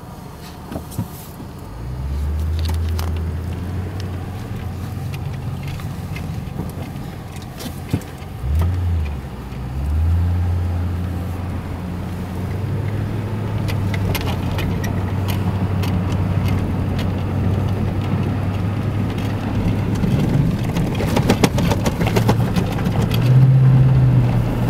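Car driving on snow-covered roads: a steady low rumble of engine and tyres that swells about two seconds in and again around ten seconds in. Scattered clicks and rattles come in the second half, thickest near the end.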